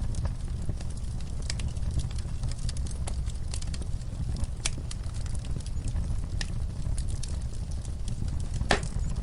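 Wood fire crackling in a fireplace: a steady low rush with frequent sharp pops and snaps, one louder pop near the end.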